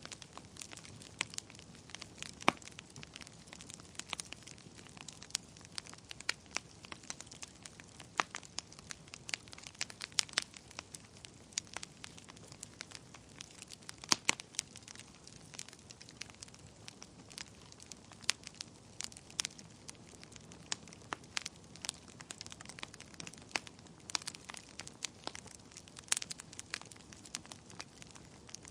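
Wood fire burning in a fireplace, crackling and popping: frequent irregular snaps of varying loudness over a low steady hiss.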